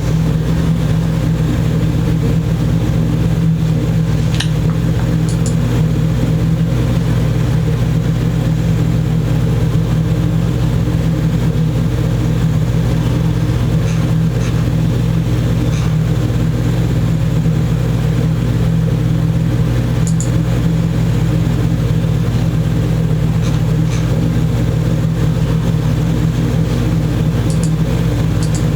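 A steady, loud machine hum that does not change, with a few faint ticks scattered through it.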